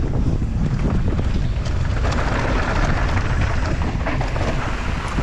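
Wind buffeting the microphone of a mountain bike descending at speed, with steady rushing noise of tyres on rough trail and a few faint clicks and rattles.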